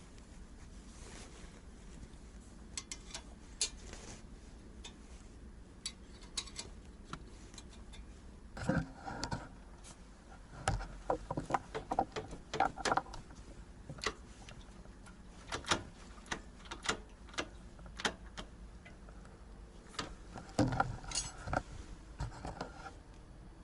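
Metal tools and small metal parts clinking and clicking as they are handled during work on a motorcycle muffler, with scattered single clicks and two stretches of busier clattering, around ten seconds in and again near the end.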